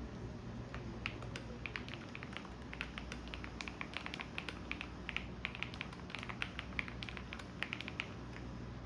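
Typing on a computer keyboard: quick, irregular runs of key clicks, over the steady low hum of a washing machine running.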